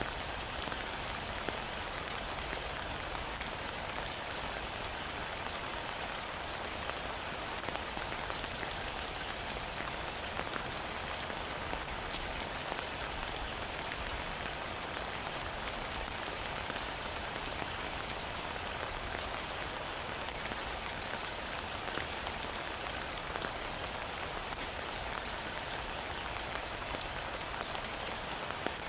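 Heavy rain falling steadily: an even, dense hiss with scattered individual drops ticking through it.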